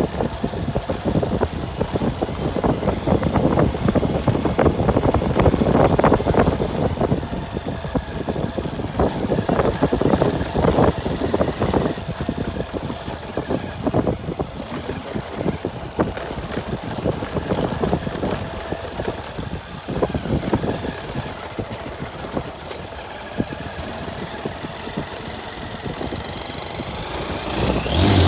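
Motorcycle engine running while riding, with an uneven rumbling noise. Near the end the engine gets louder and steadier.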